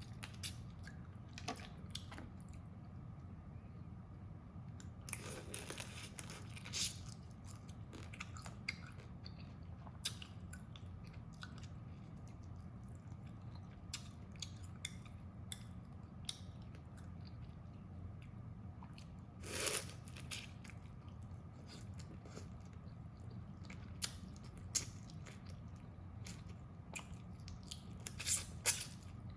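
A person eating close to the microphone: biting, chewing and crunching, with a few louder crunches scattered through, over a steady low hum.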